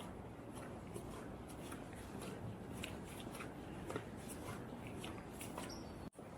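Footsteps crunching in fresh snow at a steady walking pace, about two steps a second, over faint street ambience, with a brief dropout in the audio near the end.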